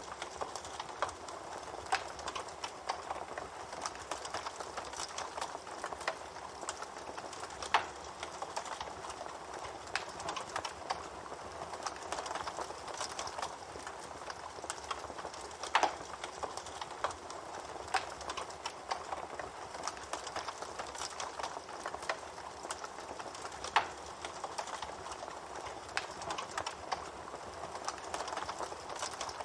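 Campfire burning: a steady hiss full of small crackles, with a few louder wood pops.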